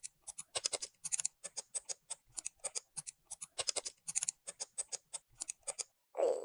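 A quick, irregular run of light, sharp clicks and taps, several a second. Near the end a louder, longer rasping sound begins.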